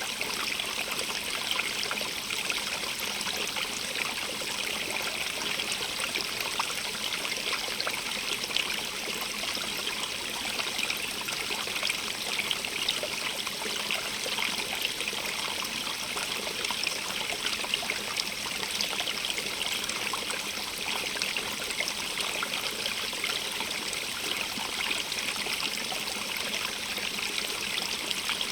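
Small stream running over stones, a steady babble and trickle of water with many fine splashes.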